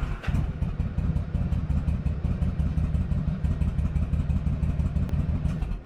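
2008 Yamaha V-Star 1100 Classic's air-cooled V-twin engine running steadily just after starting, run for a few seconds to circulate fresh oil after an oil change, then cut off suddenly near the end.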